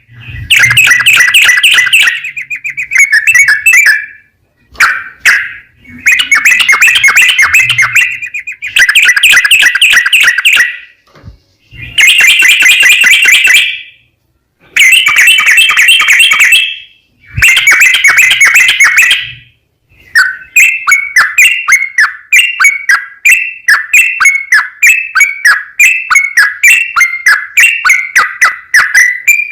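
Yellow-vented bulbul (trucukan) singing long rapid bursts of bubbling notes, each about two seconds long with short pauses between them. From about two-thirds in it changes to a steady run of quick chirping phrases, about three a second. This is the long 'ropel' song used as a lure to set other trucukan singing.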